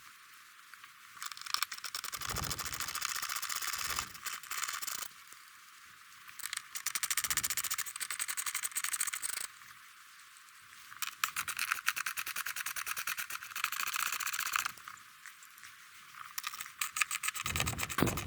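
Ratchet wrench clicking rapidly as it turns out 10 mm bolts, in four spells of a few seconds each with short pauses between.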